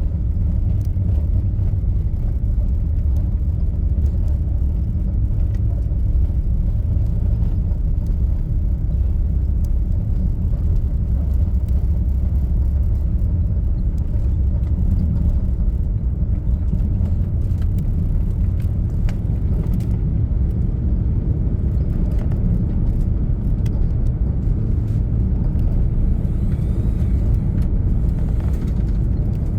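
Steady low rumble of an Airbus A380's four jet engines and the rushing air, heard inside the passenger cabin during take-off.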